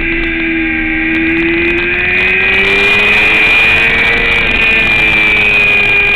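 Racing motorcycle engine running hard at speed. Its pitch dips slightly, climbs steadily through the middle as it accelerates, then eases off a little near the end.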